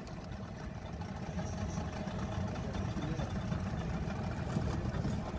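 A small boat's engine running steadily.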